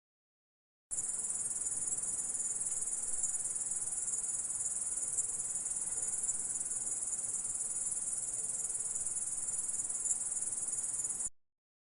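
Grasshopper chirring: a steady, high-pitched continuous buzz. It starts abruptly about a second in and cuts off suddenly near the end.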